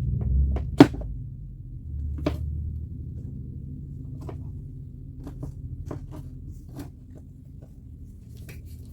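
Hand work at a bench: scattered sharp clicks and knocks of tools and parts being handled, with a loud knock about a second in and another about two seconds in, over a low rumble.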